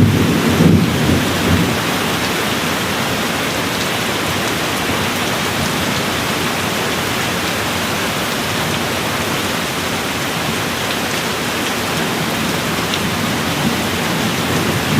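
Steady, heavy rain. A roll of thunder dies away in the first second or two.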